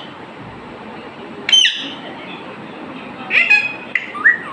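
A bird calling: one short call about a second and a half in, then a quick run of short calls near the end, over a steady background hiss.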